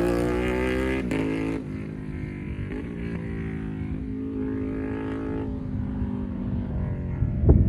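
Ducati Panigale V2 V-twin with a full titanium exhaust, holding a steady note that fades as the bike moves away. Near the end there is a sudden loud blast as the engine note comes back up close.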